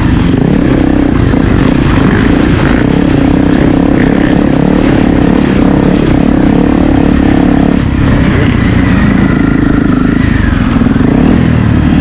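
Honda CRF250L's single-cylinder four-stroke engine running under load while riding, with the engine note holding steady, then dropping back about two-thirds of the way through and picking up again near the end.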